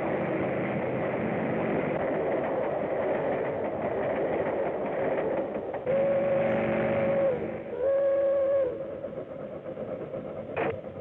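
Train running with a steady rumble, then its whistle blows twice: a long blast about six seconds in and a shorter one just after. The running noise is quieter after the whistle, with a sharp click near the end.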